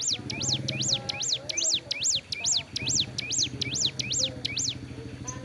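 Ciblek gunung (a prinia) singing a fast string of about a dozen identical sharp notes, each swooping up and down, roughly two or three a second, stopping shortly before the end. The bird is still singing while in wing molt. A low steady hum runs underneath.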